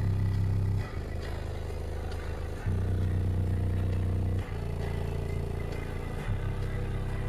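Deep sub-bass from a competition car audio system's subwoofers, playing sustained bass notes that change abruptly every second or two.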